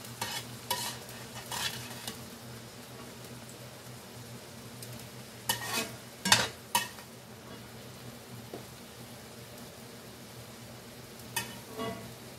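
Frozen bell pepper strips sizzling steadily in oil in a cast iron skillet; the sizzle is loud because the frozen peppers are giving off their moisture. A metal spatula scrapes and clatters against the pan a few times: just after the start, around the middle (the loudest), and near the end.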